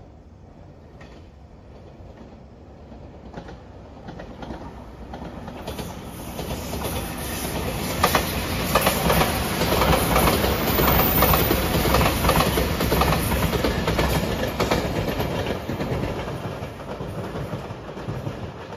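JR Shikoku 8000 series electric limited express train passing at speed, its wheels clattering over the rail joints. The sound builds over the first few seconds, is loudest around the middle, and fades away near the end.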